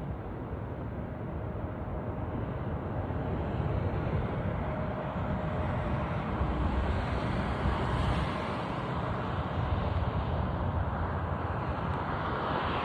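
Steady rumble of a KLM Boeing 777's jet engines heard at a distance across the airfield, growing slightly louder.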